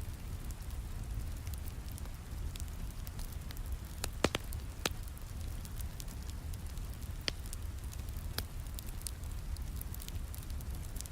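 Wood fire crackling in a fireplace, with scattered sharp pops (the loudest pair a little past four seconds in), over a steady background of falling rain.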